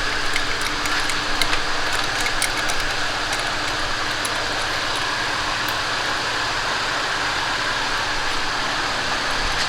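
Steady mechanical whirring with a faint steady tone, and a few light metal clinks of wrenches in the first few seconds.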